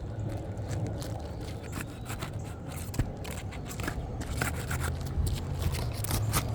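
A brittle, already-sealed asphalt shingle being broken loose from the course below: scraping and crackling with many sharp clicks as the sealant strip tears apart. A steady low hum runs underneath.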